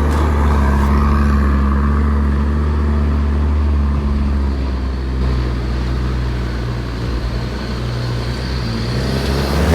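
Off-road 4x4 truck's engine running steadily as it drives up a muddy hill track, its note changing about halfway through.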